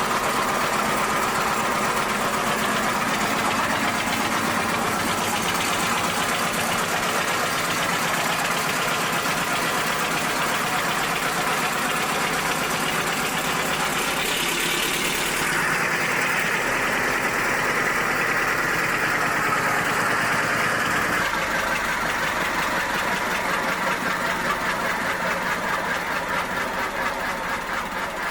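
An old English McLaren stationary engine, set up as a generator and with freshly re-poured bearings, running steadily and loud with a knocking beat. Its tone shifts a couple of times and its beat turns more uneven near the end.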